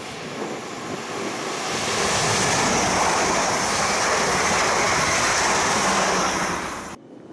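South Western Railway electric train passing close by at speed: a loud, steady rush of wheels on rail and air, with a thin high hiss on top. It swells over the first two seconds and cuts off suddenly near the end.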